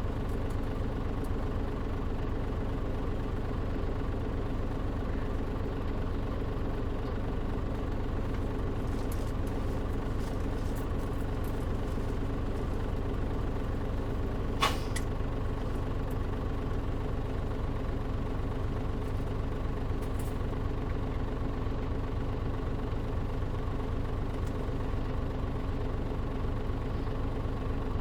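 Mitsubishi Fuso KL-MP37JM city bus's turbocharged diesel engine running steadily at an even pitch, heard from inside the cabin. A single sharp click rings out briefly about halfway through.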